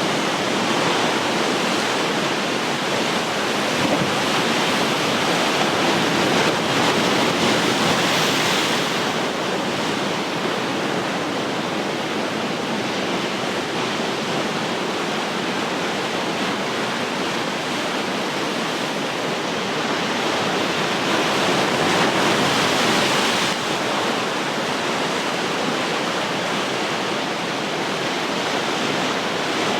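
Ocean surf: a steady rush of waves washing on the shore, swelling where a wave breaks a little louder about eight seconds in and again about twenty-two seconds in.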